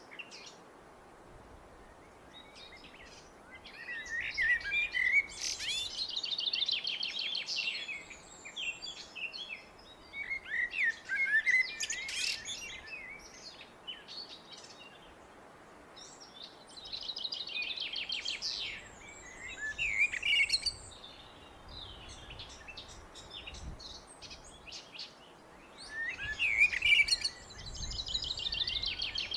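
Blackbird singing: about four separate phrases a few seconds apart, each a lower warbling start running into a high, squeaky twitter, with short pauses between phrases.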